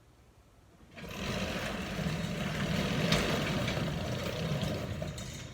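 A garage door, disconnected from its opener, being lifted by hand and rolling up its tracks. The steady rolling noise starts about a second in and eases off near the end.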